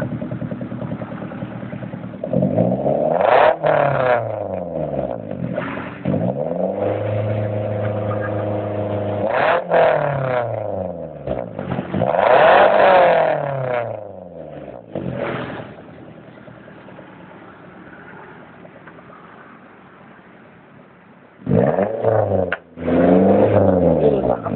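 Daihatsu Terios engine revved repeatedly through an aftermarket racing exhaust, each rev rising and falling in pitch. It settles to a quieter idle for several seconds, then revs twice more near the end.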